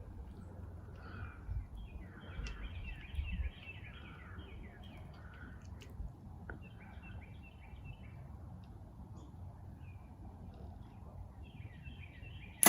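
Small birds chirping in short, repeated phrases of quick high notes, over a steady low rumble.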